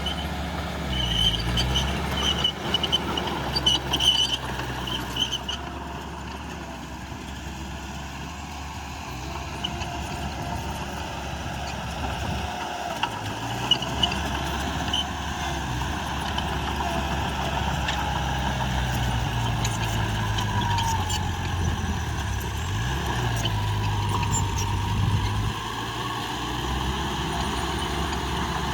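Heavy diesel earthmoving machine running under changing load, its engine note rising and falling, with squeaks and clanks in the first few seconds and two sharp knocks about halfway.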